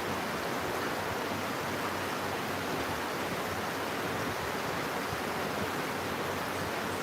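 Steady rain falling: an even, unbroken rush of noise.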